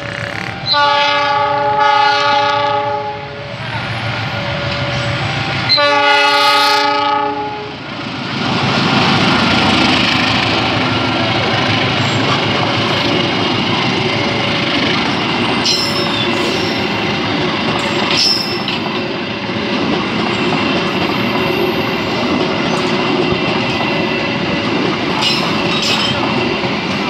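Indonesian GE CC206 diesel-electric locomotive sounding its multi-note horn in three blasts, two close together and a longer one, as it approaches, then the train passing close by: the steady rumble and clickety-clack of the coaches' wheels over the rail joints, with brief wheel squeals. A repeating warning tone from the level crossing sounds underneath.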